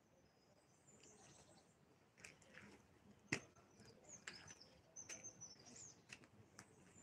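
Faint birdsong: scattered short, high chirps from small birds, with a few light clicks and one sharper click about halfway through.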